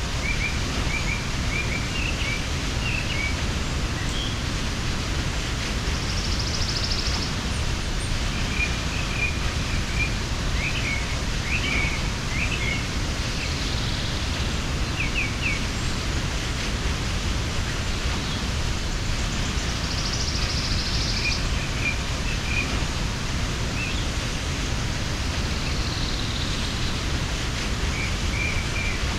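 Steady rushing of a mountain waterfall, with small birds chirping at intervals over it and a high buzzy trill twice.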